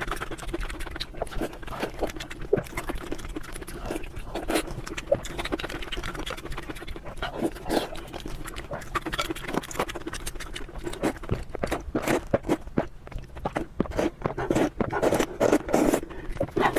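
Eating sounds: irregular chewing and wet mouth smacks with small clicks, close to the microphone.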